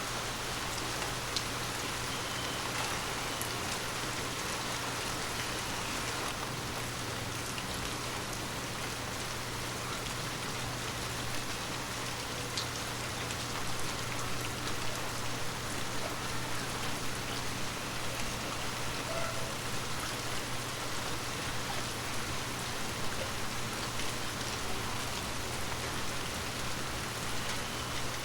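Steady soft rain falling on forest leaves, a continuous hiss with scattered light drip ticks.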